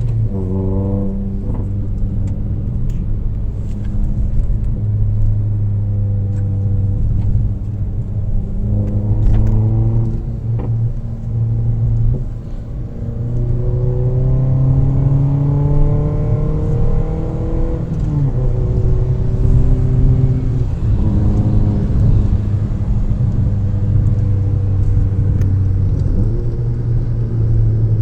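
Toyota Yaris engine with a straight-piped exhaust under way, revving up and dropping back several times as it accelerates and shifts, with steadier cruising stretches between.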